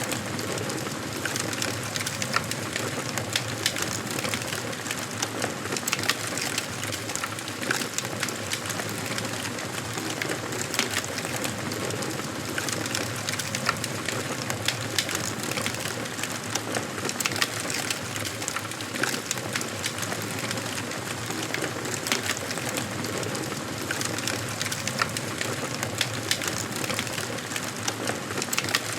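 Wood fire crackling in a fireplace: a steady hiss of burning with many sharp, irregular pops and snaps of the burning wood.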